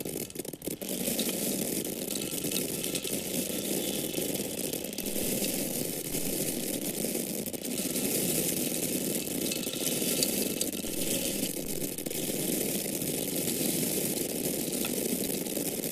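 Dry corn kernels falling in a steady stream, a dense continuous rattle of many small grains, dipping briefly about half a second in.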